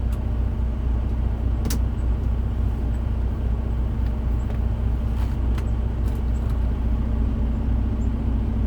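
Semi-truck's diesel engine idling steadily, heard from inside the cab. A single sharp click a little under two seconds in.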